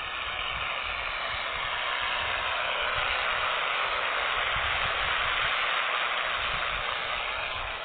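Six-cylinder tractor pulling a disc harrow: a steady rushing noise that swells over several seconds and eases off near the end.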